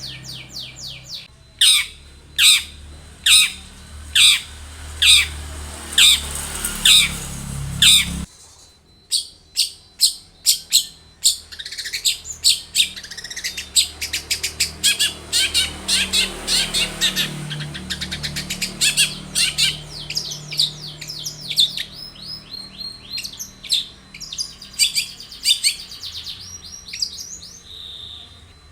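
Long-tailed shrike singing: a run of loud, sharp notes a little under a second apart, then after an abrupt break a faster, varied chatter of many quick notes.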